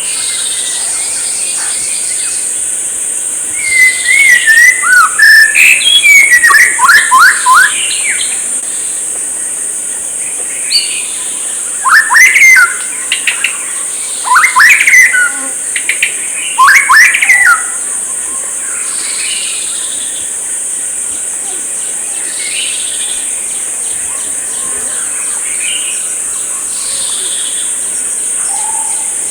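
A bird sings clear whistled phrases of quick rising and falling notes in four loud bursts in the first half, over a steady high insect drone. Fainter bird calls follow in the second half.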